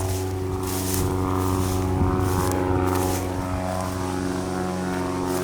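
A steady mechanical drone holding one pitch, like an engine running, with short hissy noises over it every half second or so.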